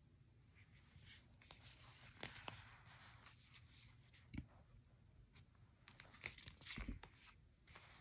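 Faint handling of a hardcover picture book: hands sliding and scraping on the cover as it is turned over and back, with a soft thump a little past halfway and a couple more near the end.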